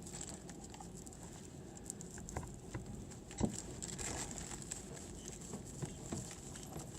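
Faint rustling and light scattered tapping of hands pushing shred stuffing down into a bird toy's finger traps, with one sharper knock about three and a half seconds in.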